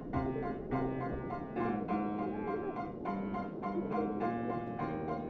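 Solo piano background music, a steady run of struck notes and chords.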